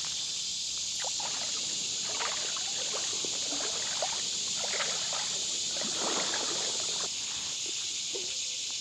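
A steady, high-pitched chorus of loud insects, with light water splashing and sloshing on and off between about one and seven seconds in.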